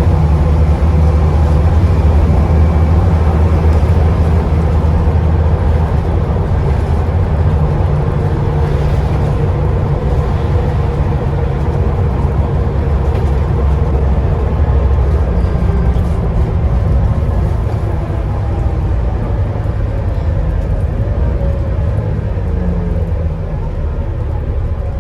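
Scania Enviro 400 double-decker bus driving along, heard from inside the lower deck: a steady low engine drone with a faint high turbo whistle above it. The sound eases off a little in the last several seconds.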